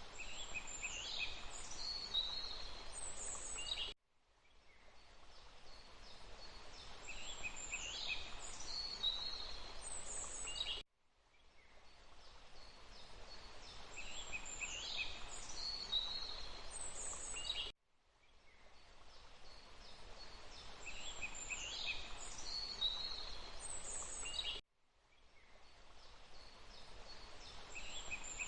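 Forest ambience: a few birds calling and chirping over a steady background of flowing water. The same short stretch of recording repeats about every seven seconds; each time it cuts out to near silence for a moment and then fades back in.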